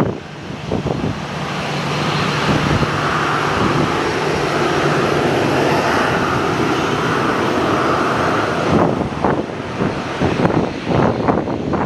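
An aircraft's engines running as it passes, a steady rushing sound that builds over the first couple of seconds and holds, then gives way to strong wind buffeting the microphone in irregular gusts from about nine seconds in.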